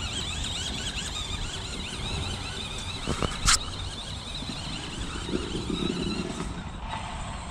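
Remote-controlled monster truck's motor and gears whining, the pitch rising and falling again and again as the throttle is worked, over a low rumble of tyres and wind. A single sharp click about three and a half seconds in.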